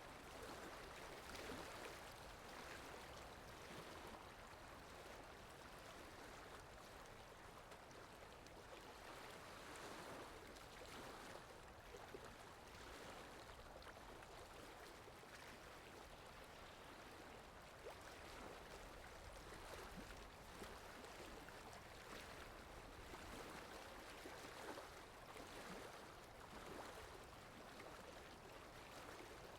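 Faint, steady rain in a forest, an even hiss of falling water with fine drop noises.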